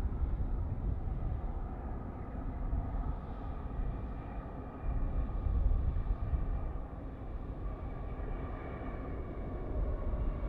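Jet airliner's engines on an arrival: a steady low rumble with a faint whine that rises slowly in pitch.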